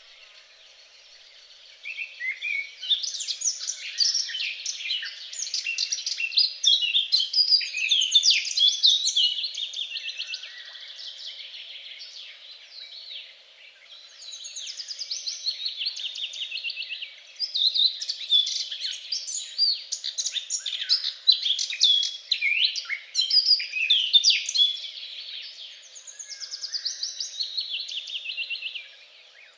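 Songbird singing long, varied phrases full of rapid trills and quick chirps, in several stretches with short pauses between them.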